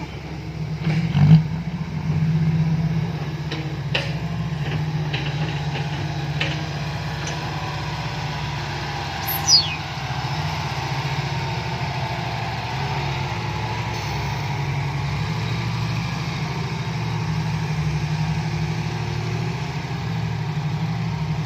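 Heavy diesel earthmoving machine engine running steadily, with a few sharp metallic knocks in the first few seconds and a brief falling whistle about halfway through.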